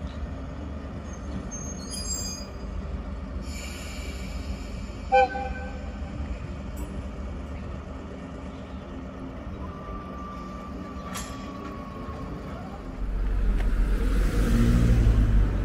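Rail yard sounds: a steady low rumble from the shunting locomotives and one short sharp horn toot about five seconds in. A thin, slightly falling whine follows near ten seconds. Near the end the rumble of a passing electric train grows louder.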